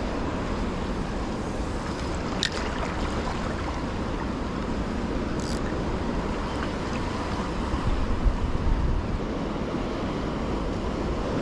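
Wind buffeting the microphone over lapping water, gusting harder about eight seconds in, with a couple of faint clicks.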